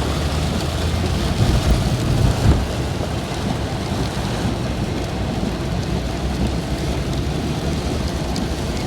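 Rain falling on a car, heard from inside, a steady dense patter over a low rumble that swells for a second or so about a second in.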